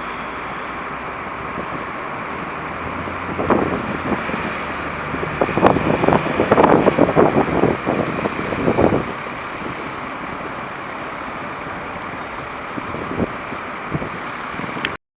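Traffic noise on a snowy downtown street, with gusts of wind buffeting the microphone for several seconds in the middle. The sound cuts off suddenly near the end.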